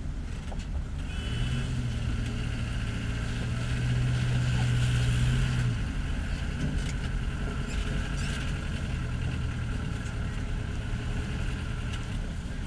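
An overloaded dump truck's engine running under load: a steady drone that grows louder about a second in, then eases a little about halfway through.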